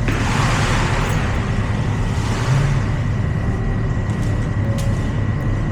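Water spraying onto a car during washing, in two hissing bursts (one right at the start and another about two seconds in), over a steady low rumble.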